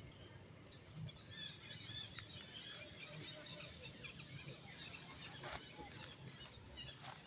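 Faint outdoor ambience of small birds chirping in scattered short calls, with two soft clicks, one about five and a half seconds in and one near the end.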